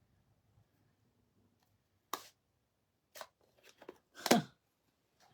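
A few short, sharp clicks and taps of stamping supplies being handled on a tabletop, the loudest about four seconds in.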